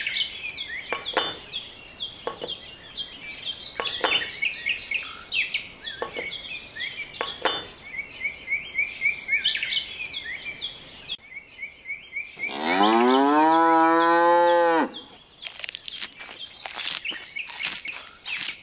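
A cow mooing once, a long call that rises at the start and then holds for about two seconds, the loudest sound here. Before it, high chirps like birdsong repeat over scattered clicks; after it, a quick run of clicks.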